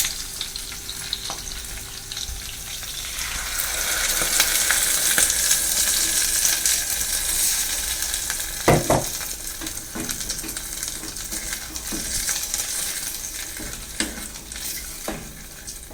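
A cornflour, water and soy sauce mixture sizzling in a hot pan of frying chicken and cabbage, the hiss swelling a few seconds in and then slowly dying down as the sauce heats. A few sharp knocks of the stirring utensil against the pan.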